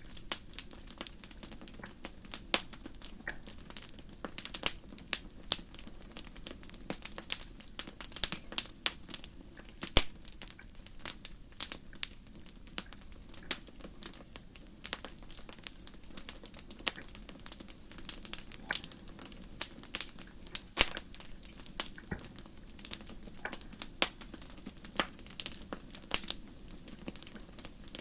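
Fire crackling: irregular sharp pops and snaps, several a second, over a low steady rush.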